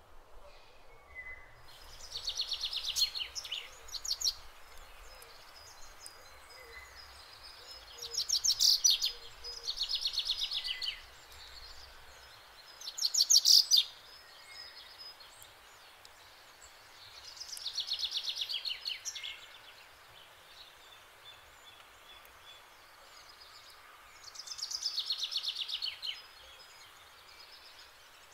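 A songbird singing: a fast trilled phrase repeated about six times, a few seconds apart, over faint outdoor background noise.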